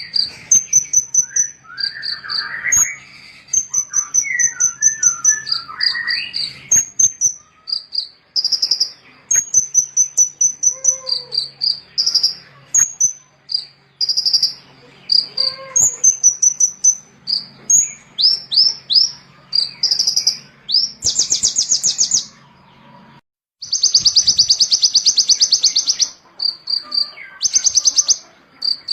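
Small songbirds singing a fast series of high-pitched repeated chirps and rapid buzzy trills, as used in a masteran recording for training caged birds. The sound cuts out briefly about two-thirds of the way through, then resumes with loud rapid trills.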